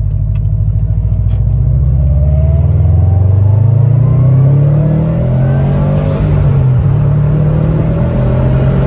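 2019 Subaru WRX STI's turbocharged flat-four accelerating, heard from inside the cabin and fitted with a GrimmSpeed Dry-Con air filter. The engine note climbs, dips about five seconds in as if at a gear change, then climbs again.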